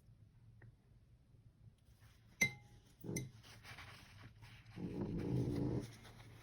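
A dog snoring: one long, rough snore of about a second, starting about three-quarters of the way through. Before it come two sharp clinks, about two and a half and three seconds in.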